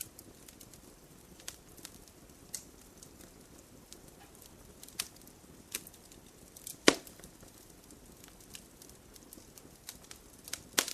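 Wood campfire crackling: scattered sharp pops and snaps over a soft steady hiss of burning, with one louder pop a little under seven seconds in and a quick cluster of pops near the end.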